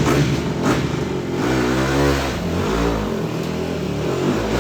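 Dirt bike engine running hard under a constant rush of noise, its pitch rising and falling as it revs up and backs off about two seconds in.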